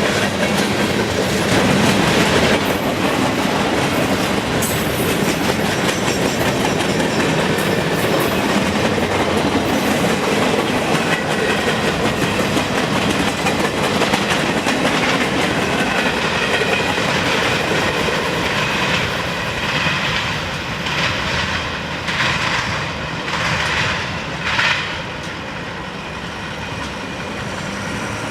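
Railroad cars rolling past on the track, their wheels clattering over the rail joints in a steady clickety-clack. The sound eases off near the end.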